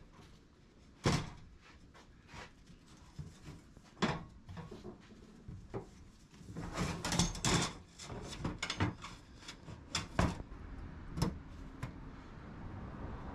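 Irregular knocks, clunks and short scrapes of objects being handled: a single knock about a second in and another about four seconds in, then a busier run of clatter and scraping from the middle to near the end.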